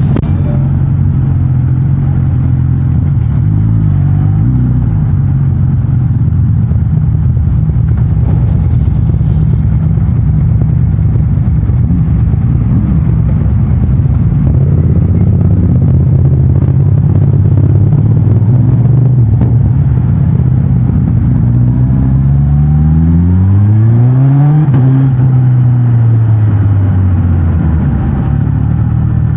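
Suzuki GSX-S 1000 GT's inline-four engine through the stock exhaust, running on the move at low revs. About 22 seconds in it revs up for a couple of seconds, then the revs fall away smoothly.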